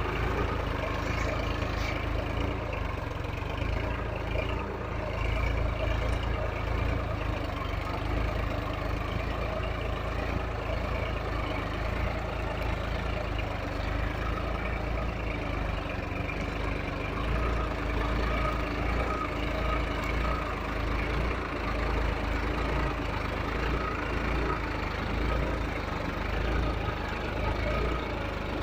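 Solis tractor's diesel engine running steadily at a low, even speed.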